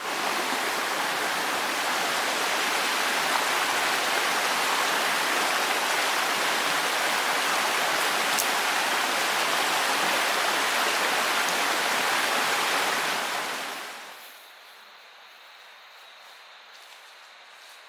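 Steady rush of flowing stream water, an even hiss that fades away about fourteen seconds in, leaving only a quiet background.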